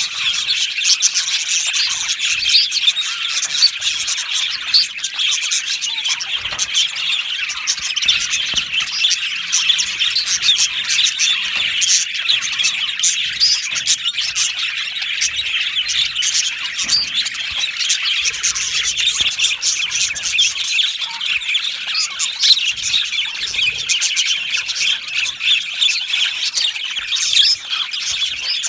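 A flock of budgerigars chattering, with many overlapping chirps, warbles and squawks in a dense, unbroken din.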